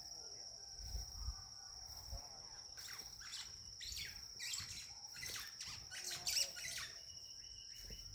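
Birds calling in a string of short, sharp, high calls from about three to seven seconds in, the loudest near the end of that run, over a steady high-pitched insect buzz.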